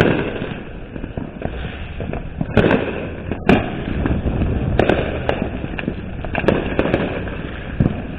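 Fireworks going off around the street: a string of irregular sharp bangs and pops, one every second or so, some louder and closer than others, over a steady background din.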